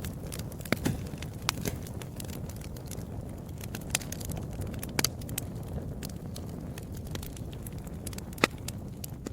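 Wood fire crackling: a steady low rumble of burning with irregular sharp pops, the loudest about eight and a half seconds in.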